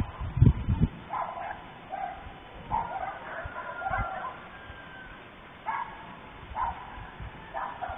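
Short animal calls repeating about once a second, with a burst of loud low thumps about half a second in.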